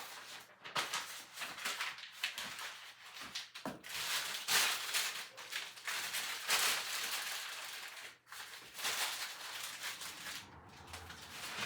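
Irregular rustling and crinkling of things being handled and sorted, in uneven bursts with short pauses between them.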